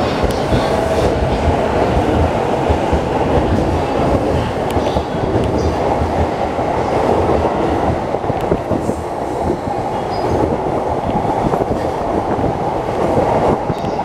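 E233-1000 series electric commuter train departing and running past close by, a continuous loud rumble of steel wheels on rail as its cars go by.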